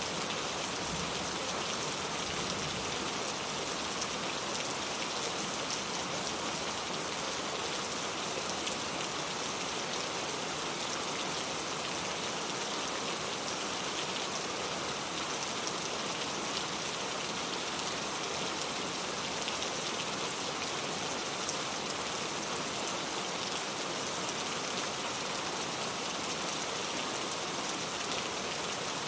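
Steady rain falling and pattering on a surface, an even hiss of many drops.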